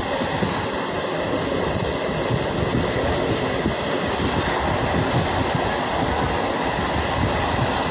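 Steady rumble and rattle of a moving train, heard from on board.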